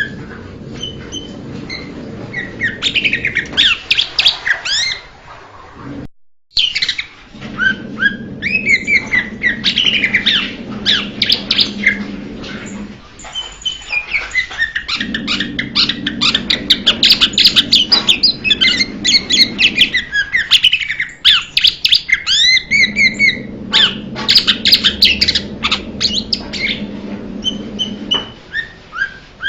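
Blue-winged leafbird singing: a fast, varied run of chirps and whistles, broken by a short gap about six seconds in, with a low steady hum underneath.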